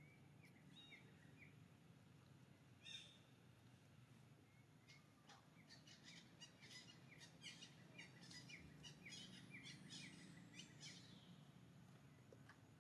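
Faint bird chirping over low background noise: a few scattered short chirps, then a quick run of short repeated chirps, about three a second, through the middle.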